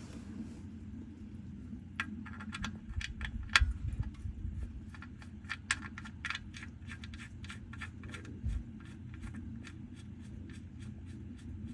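Hand ratchet clicking in quick, even strokes, about three or four sharp metallic clicks a second, starting about two seconds in, as a fastener is turned under the car during an oil change.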